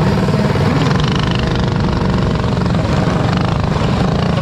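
Several mini bikes with Predator 212cc single-cylinder four-stroke engines running hard while racing, their engine notes overlapping in a steady, loud drone.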